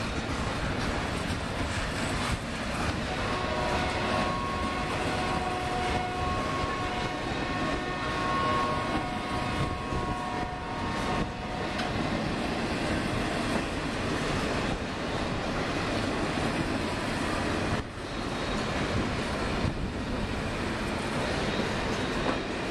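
Double-stack container well cars of a Union Pacific freight train rolling past on the rails: a steady rumble and clatter of steel wheels. For several seconds in the middle, a set of steady ringing tones sits over the rumble.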